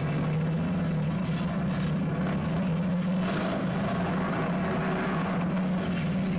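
Motorcycle engine running at steady low revs with slight rises and dips, played back through room speakers.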